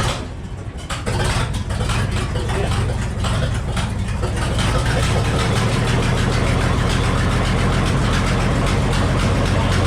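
The engine powering the old Frick sawmill running, picking up about a second in and settling to a steady idle.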